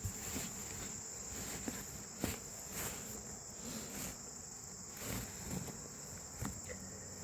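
Crickets chirring steadily in one continuous high-pitched tone, with a few faint soft rustles or knocks of handling now and then.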